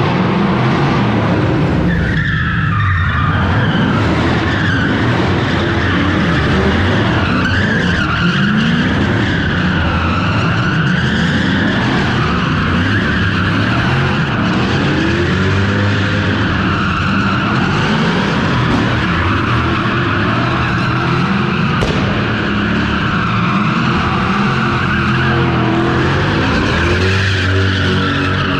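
Straight-piped 3UZ V8 drift car revving hard and repeatedly as it slides, engine pitch rising and falling over and over, with tyres squealing and skidding throughout.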